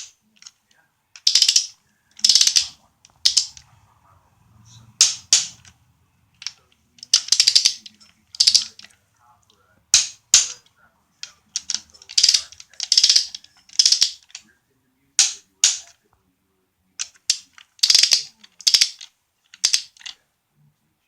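Ratcheting torque wrench tightening cylinder head bolts one after another in sequence to the 33 ft-lb stage: short sharp ratchet strokes in clusters with pauses between bolts.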